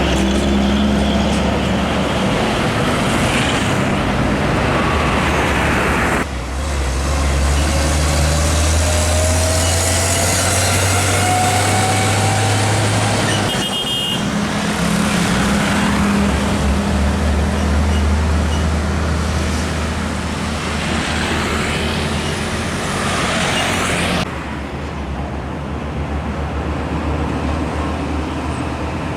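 Heavy diesel trucks running and passing on a road, with a steady low engine drone and traffic noise. The sound changes abruptly three times. A rising whine comes partway through.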